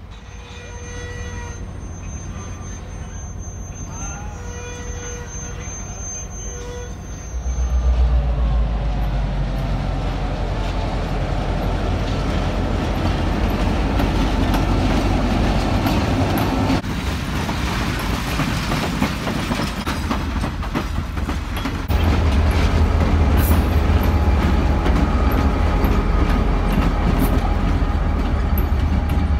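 Passenger train running along the track, heard from on board: a steady low rumble with rushing noise that steps up sharply about seven seconds in and again about twenty-two seconds in.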